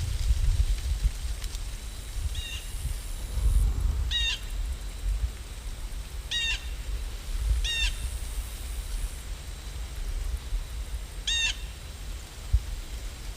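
A bird calling five times, short harsh calls spaced a few seconds apart, over a steady low rumble and faint hiss.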